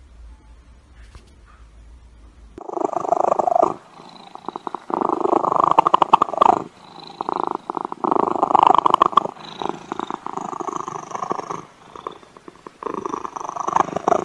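A domestic cat purring loudly close to the microphone. The purr starts about two and a half seconds in and runs in rapid, rattling bouts broken by short pauses.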